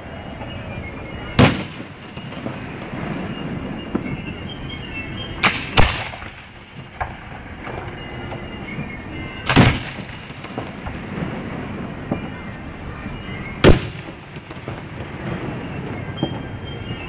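Aerial fireworks shells bursting in a display: five loud booms, two of them close together, spaced about four seconds apart. Smaller pops and crackle fill the gaps between them.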